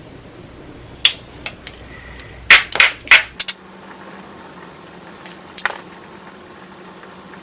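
Sharp clicks and knocks of stone being knapped, as flakes come off a small pebble. There is a single strike about a second in, a quick cluster of four or five about halfway through, and one more later.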